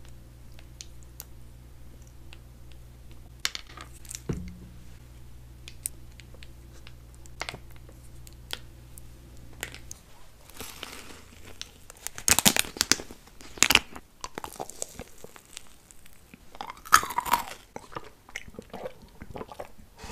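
Light taps and handling noise over a steady low hum, which stops about halfway; then a bite into a bubble waffle stuffed with ice cream and chocolate balls, with loud crunching and chewing close to the microphone.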